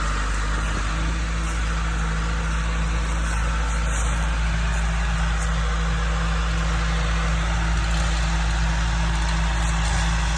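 John Deere 310D backhoe's diesel engine running steadily with a constant low rumble.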